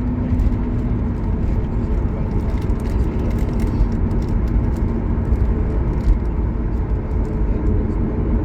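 Cabin noise inside a Boeing 737 MAX 8 airliner: a steady low rumble with a faint even hum.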